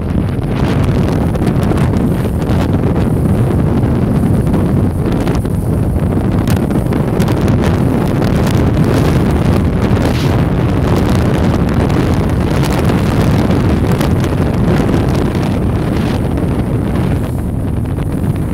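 Heavy wind buffeting on the microphone over a bass boat running at speed, a steady low rumble with no change in pitch.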